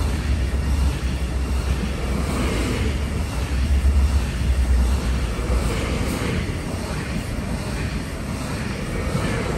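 Electric multiple-unit passenger train running past close by at speed: a steady rumble of wheels on rails and rushing air, with no break as the carriages go by.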